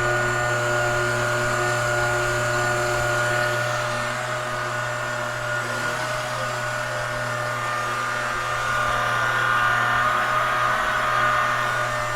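Two electric stand mixers running together on medium speed, giving a steady motor whine and hum. The louder 600-watt universal AC motor mixer dominates, with the quiet DC-motor KitchenAid Professional 6000 HD underneath. The pitch of the whine shifts slightly about four seconds in.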